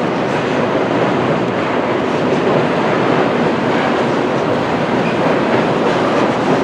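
Freight train cars rolling past with a steady noise of wheels on rail.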